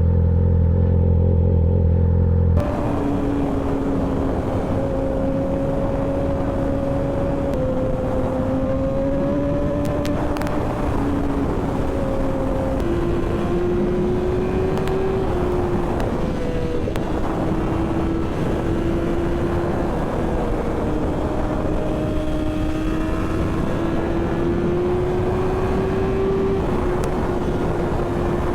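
2008 Yamaha R6's inline-four engine through a catless Black Widow exhaust with an SC Project muffler, cruising at a fairly steady speed under heavy wind noise, its note drifting gently up and down. A louder, steadier low drone opens the sound and cuts off abruptly after a couple of seconds.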